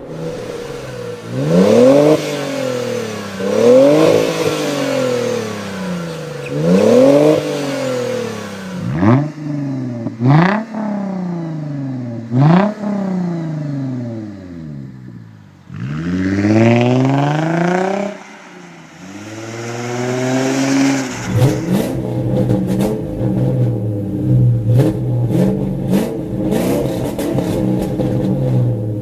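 Tuned 400 hp Subaru Impreza WRX STi's turbocharged flat-four revved repeatedly through its exhaust. First come a few slow swells up and down, then several quick, sharp throttle blips, and from about two-thirds of the way in it settles into a steady idle with scattered sharp clicks.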